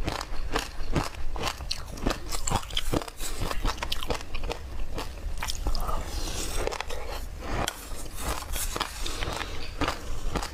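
A person chewing a mouthful of crunchy, granular food, with many irregular crisp crunches several times a second.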